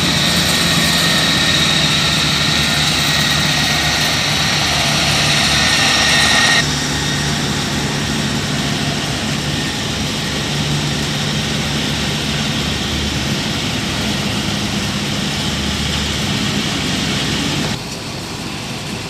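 Combine harvester diesel engines running steadily, a loud low hum with a higher whine above it. The sound drops abruptly in level about six and a half seconds in and again near the end.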